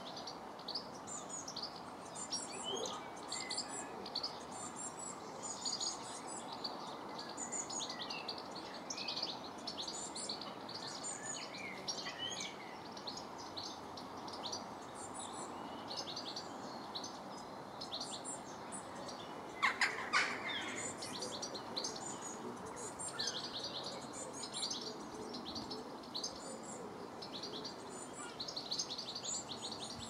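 Garden birds chirping and singing in many quick, short, high notes over steady background noise. A brief louder sound stands out about two-thirds of the way through.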